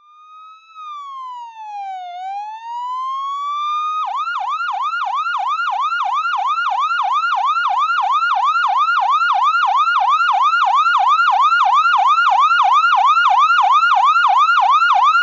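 Electronic siren: one slow wail falling and rising again, then about four seconds in it switches to a fast yelp of about three warbles a second, growing steadily louder.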